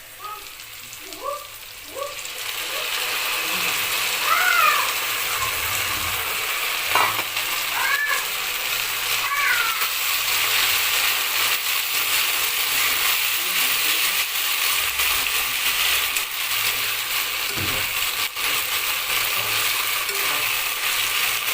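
Food frying in hot oil in a pan: a steady sizzle that swells up about two seconds in and then holds. A few short high calls sound over it a few seconds in.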